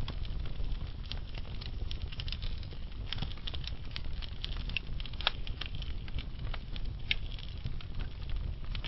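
Wood fire burning slowly in a fireplace: a steady low rumble with irregular crackles and pops, a few sharper pops standing out about five and seven seconds in.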